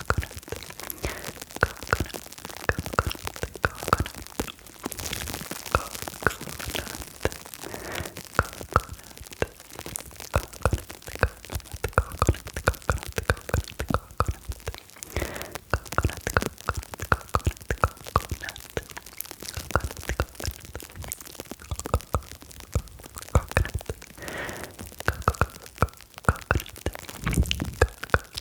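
Close-miked ASMR triggers: plastic film crinkling and foam crackling, mixed with mouth sounds. The result is a dense, irregular run of short clicks and crackles with occasional soft thumps.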